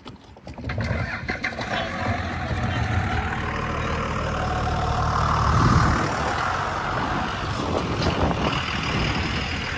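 Truck engine running: it comes in under a second in, swells to its loudest about six seconds in, then settles to a steady run.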